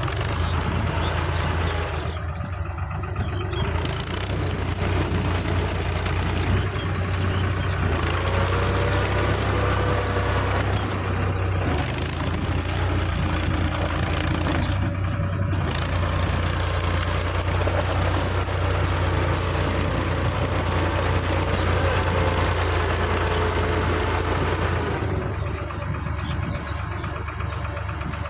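Case JX55T tractor's diesel engine running steadily with a constant low hum, its pitch wavering up and down in the middle stretch.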